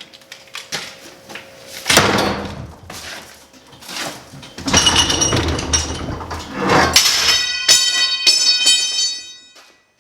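A door being worked, with a series of bangs and a scraping rattle, and metallic ringing from about 7 seconds in until it dies away just before the end.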